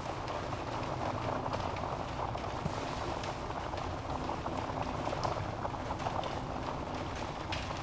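Wood fire burning in a fireplace: a steady hiss and rustle of flames with frequent small crackles and pops from the logs, a few sharper pops standing out.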